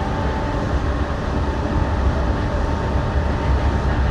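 Yurikamome rubber-tyred automated guideway train running at speed: a steady low rumble with a faint steady whine.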